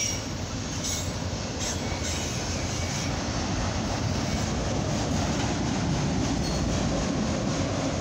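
Freight train of auto rack cars rolling past at speed: a steady rumble of steel wheels on the rails, with a couple of sharp clacks in the first two seconds.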